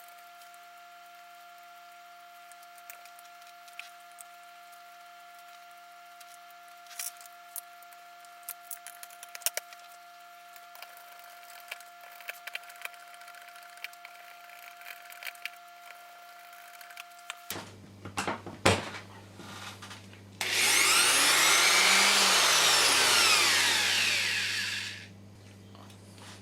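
Woodworking router switched on and running at full speed for about four seconds, its pitch rising then falling, before it winds down. Before it come scattered light clicks and taps of handling.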